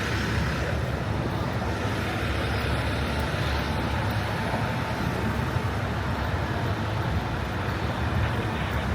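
Steady city street traffic noise, an even background of vehicles with no single event standing out.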